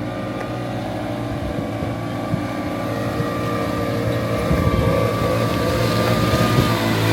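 Small 49cc engine of a converted kids' Jeep running steadily with a thin high whine over its hum, growing gradually louder.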